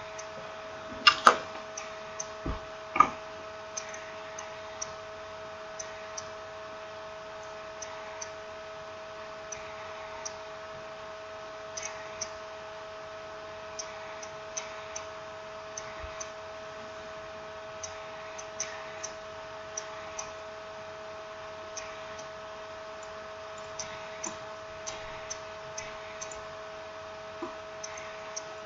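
Small clicks and taps of phone parts and tools being handled during smartphone reassembly, scattered irregularly, with a few louder knocks between one and three seconds in, over a steady electrical hum.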